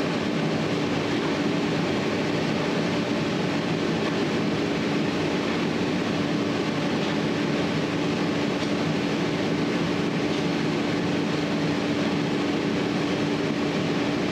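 Steady mechanical hum with one constant pitched tone, unchanging in level throughout.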